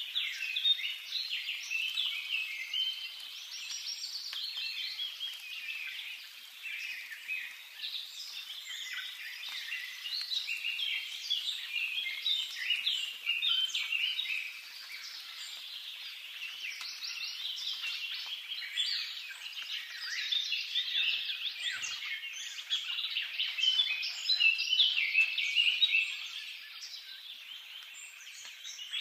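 Many small birds chirping and twittering at once, a dense unbroken chorus of short high calls that swells and eases.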